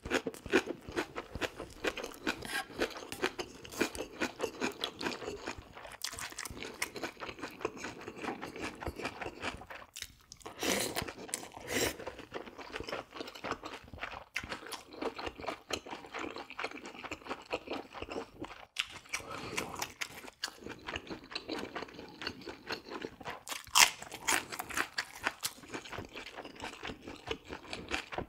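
A person chewing and crunching food close to the microphone: dense, quick crunching and mouth clicks, with one louder sharp click late on.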